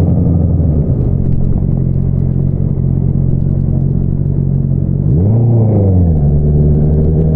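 2022 Honda CBR650R's inline-four running through an Akrapovič single-outlet exhaust at a steady low engine speed, with one quick throttle blip about five seconds in, the pitch rising and falling back within a second.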